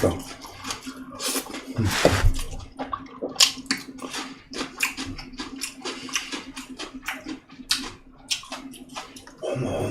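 Wet chewing of a mouthful of bossam (boiled pork wrapped with garlic), close to the microphone: a rapid, irregular run of moist clicks and smacks. A steady low hum runs underneath.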